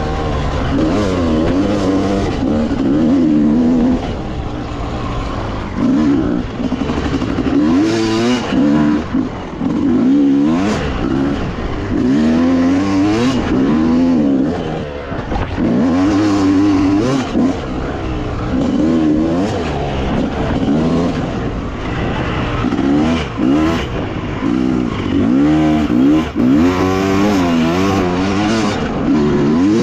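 Dirt bike engine revving up and down as it is ridden, its pitch rising and dropping again every second or two with the throttle.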